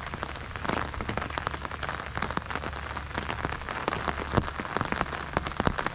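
Rain falling, a dense irregular patter of small drop impacts close to the microphone.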